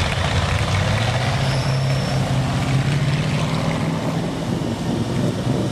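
Truck engine running steadily, its low drone holding an even pitch, with outdoor noise around it.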